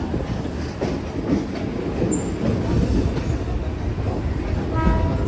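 Mumbai suburban electric local train (EMU) running, heard from the open doorway of a coach: a steady rumble with wheels clattering over the rails. A wheel squeal sets in near the end on a curve.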